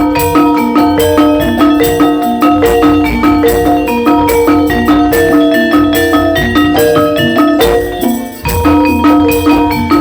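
Gamelan music for a jaranan dance: metal mallet instruments strike fast, repeating pitched notes over a low drum. The music dips briefly about eight seconds in, then carries on.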